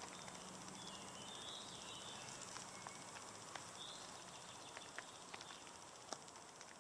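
Faint outdoor nature sound: a steady, fast, high-pitched trill of insects, with a few scattered light clicks.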